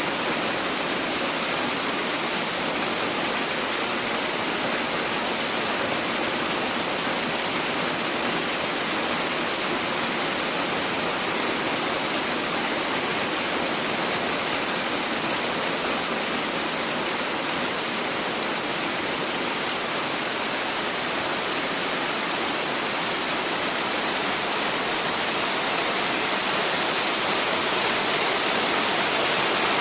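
Steady rushing of a tall multi-tier cascade waterfall, Kakugami Fudo Falls, with water pouring down the rock steps; it swells slightly louder near the end.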